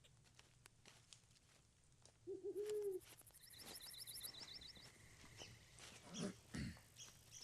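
Faint forest quiet broken about two seconds in by a bird's short low hooting call of a few quick notes, then a brief run of high chirps from another bird. Light crunching footsteps tick through the background.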